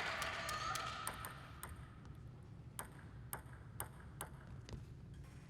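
Table tennis ball clicking sharply against a hard surface, about two ticks a second, after a fading voice and hall noise at the start.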